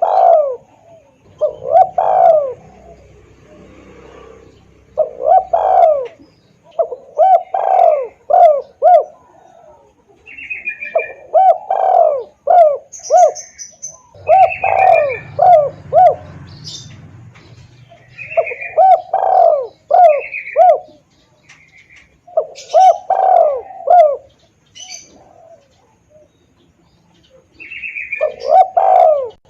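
Spotted dove (tekukur) lure call: repeated cooing phrases of three to five rising-and-falling notes, one phrase every two or three seconds, loud and clear. Short higher chirps of small birds come in between the phrases.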